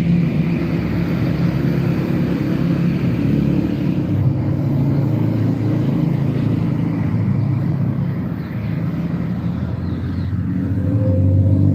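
A steady, low engine rumble, its hum shifting slightly in pitch now and then.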